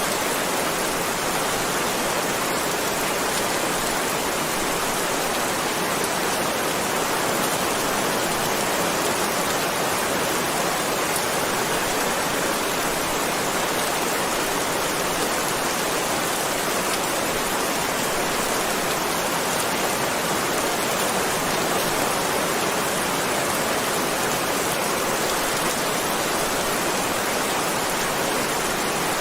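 Heavy rain falling steadily, a dense even hiss of rain with no distinct drops or breaks.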